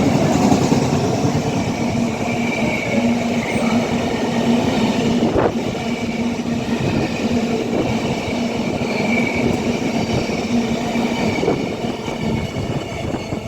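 Freight train hauled by a Class 66 diesel locomotive passing through the station, its wagons rolling steadily over the rails with a continuous drone and a faint high ringing from the wheels. There is a single sharp clank about five seconds in, and the sound eases off near the end as the train clears.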